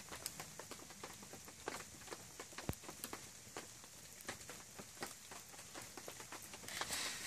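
Wood fire crackling, with irregular sharp pops and snaps and one louder pop about two and a half seconds in.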